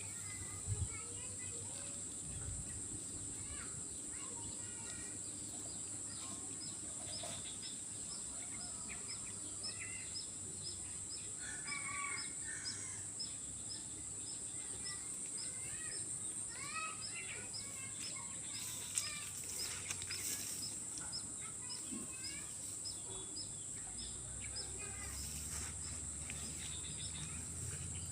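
Swamp ambience: birds calling in short, scattered chirps over a steady high-pitched insect drone, with a regular ticking call about twice a second through most of it.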